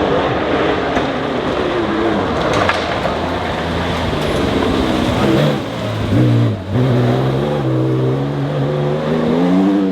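Rally car engine pulling hard under acceleration, with a brief lift and gear change about six and a half seconds in, then the revs climbing steadily again.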